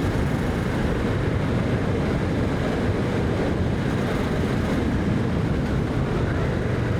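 Kawasaki Vulcan 650 motorcycle engine running steadily while riding, with wind buffeting the microphone.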